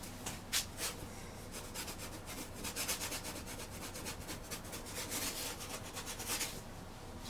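Paintbrush scrubbing oil paint onto canvas in quick, irregular short strokes.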